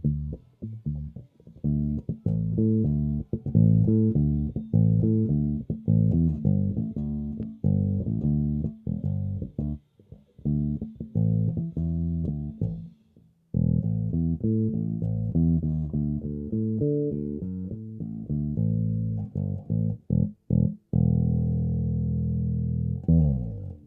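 Tokai AJB, a Jazz Bass-style electric bass, played solo in a choppy plucked line with short breaks, ending on a long held note that slides down in pitch.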